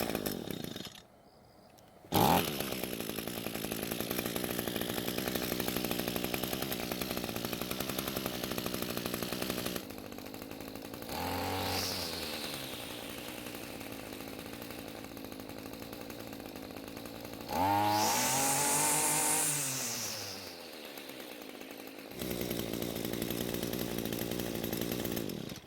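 Echo string trimmer's small two-stroke engine running, with the throttle blipped about half way through and opened to full speed for a longer rev that rises and falls about two-thirds through. It revs up cleanly without bogging, the carb's fuel screw having just been opened a half turn for a richer mixture.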